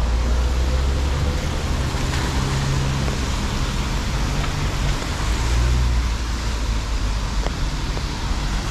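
City street traffic on a wet road: cars passing with a low engine rumble and tyre hiss over a steady wash of noise, the rumble swelling at the start and again a little past the middle.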